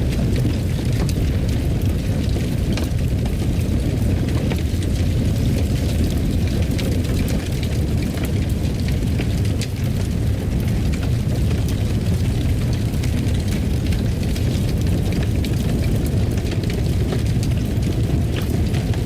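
Fire burning in a fireplace: a steady low rumble with frequent small crackles and pops scattered throughout.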